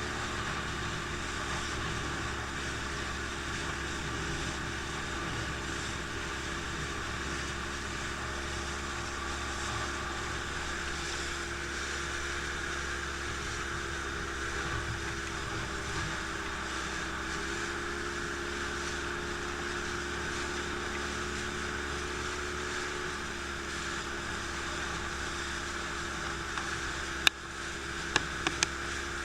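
Motorboat engine running steadily at an even speed, with a few sharp clicks near the end.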